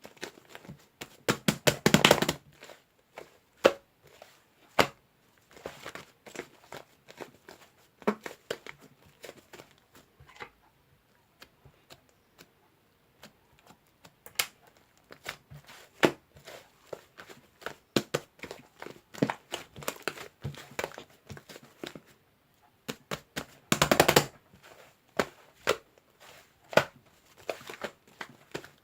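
Fluffy clay slime being squished and pulled by hand, giving dense clicking and crackling pops as air pockets burst. Two louder runs of crackling come about two seconds in and again near the end.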